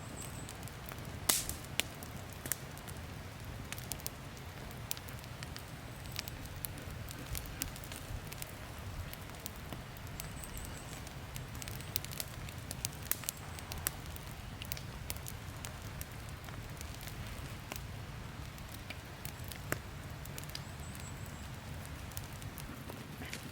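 Wood campfire crackling, with irregular sharp pops, the loudest about a second in, over a low steady rumble.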